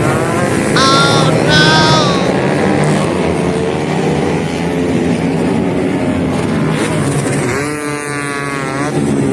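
Motorcycle engines revving, their pitch rising and falling. Two short high-pitched sounds come about a second in, and a pitch falls away near the end.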